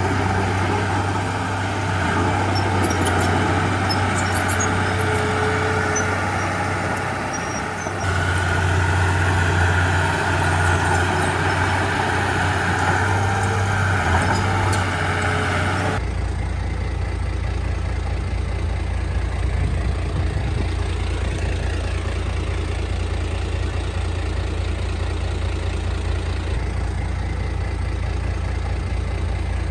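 Diesel engine of heavy earthmoving machinery running steadily with a deep drone and some clattering. About halfway in, the sound changes abruptly to a steadier, duller low rumble.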